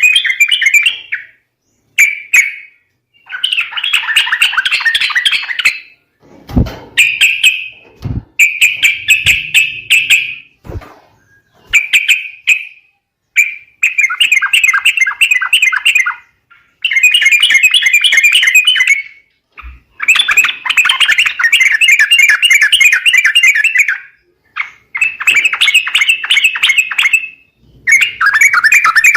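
Yellow-vented bulbul (trucuk) calls played as a bird-trapping lure: loud bursts of rapid, bubbly chattering notes, one after another with short pauses. A few low thuds come in the first half.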